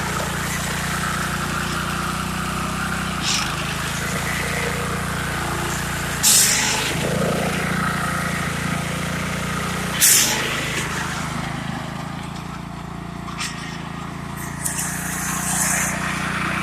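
Lawn tractor engine running steadily, with a few short noisy bursts over it.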